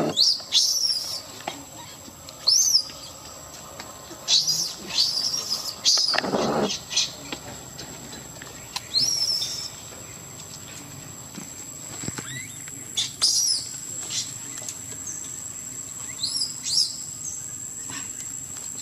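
Birds chirping: short, clear high calls that rise and fall, repeating every second or two over a thin steady high tone. A brief, louder, lower call comes about six and a half seconds in.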